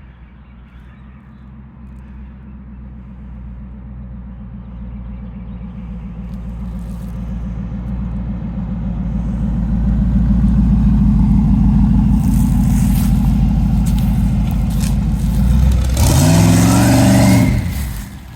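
Twin-turbo Camaro's engine running with a low, steady note that grows louder over about ten seconds as the car comes closer, then revs up in a quick rising sweep near the end before dropping away.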